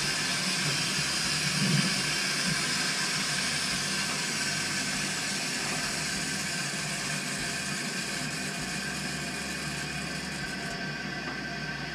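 Water hissing steadily as it rushes back into the Navien NCB 240 combi boiler's piping and new circulator pump after the supply is turned on, slowly easing off as the system fills.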